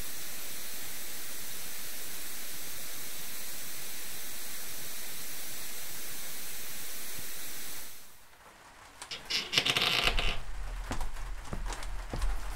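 A steady hiss for about eight seconds that then fades away. A loud rustle follows, then a few scattered knocks and clicks.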